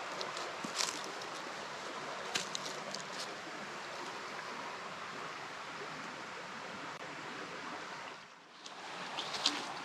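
Creek water rushing steadily over shallow rapids, with a few light clicks on top. The rush drops away briefly about eight seconds in, then returns.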